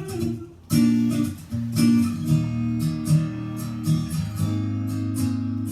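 Strummed acoustic guitar music with a low bass line, without singing, briefly dropping out about half a second in before carrying on.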